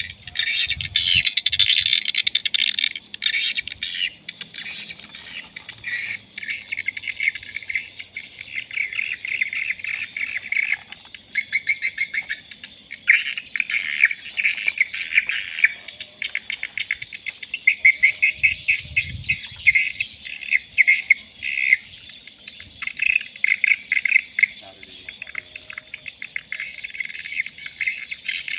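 Swiftlets twittering: a dense, continuous run of rapid chirps that swells and eases in waves.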